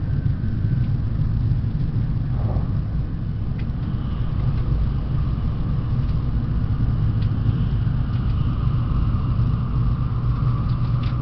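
Steady low rumble of a Tokaido Shinkansen train running at speed, heard inside the passenger car. A faint whine comes in during the second half.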